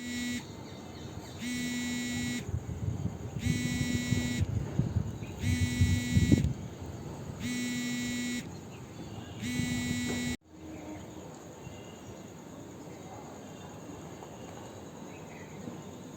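An electronic beeper sounding six steady beeps, each about a second long and two seconds apart, over a low rumble. It cuts off about ten seconds in, leaving faint background noise with a few faint high chirps.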